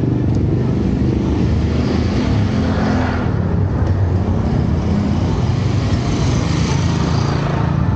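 Street traffic: motor vehicle engines running steadily, with vehicles going by.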